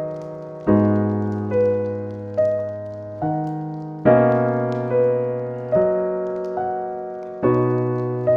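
Slow, gentle piano music: soft chords and melody notes struck about once a second, each left to ring and fade.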